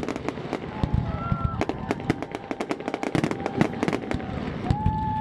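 Fireworks salute going off in rapid, irregular succession: many sharp bangs and crackles overlapping, with a few brief whistling tones, the clearest near the end.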